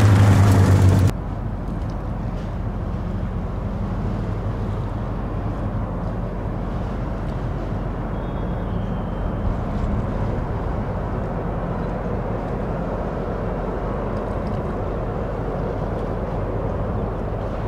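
Porsche 911 GT3 (997) flat-six engine idling at a distance, a steady low drone. It opens with a louder engine sound that cuts off abruptly about a second in.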